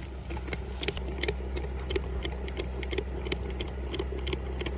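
Old Honda motorcycle engine running steadily as the power for a homemade rope tow, with a light regular clicking and rattling, several clicks a second, over the low engine hum.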